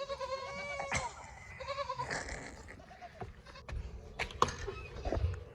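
Goat bleating: one long wavering bleat, then a shorter one about two seconds in, followed by scattered sharp clicks and rustling.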